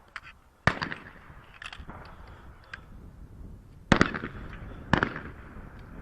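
Shotgun shots at clay targets: one sharp report less than a second in, then two more about a second apart near the four- and five-second marks, each with a short echo.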